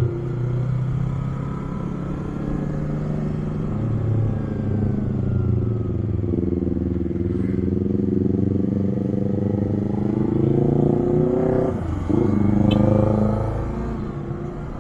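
Yamaha MT-25 parallel-twin engine running through its stock muffler while riding. The engine note climbs steadily under acceleration, drops sharply and picks up again about twelve seconds in, then eases off near the end.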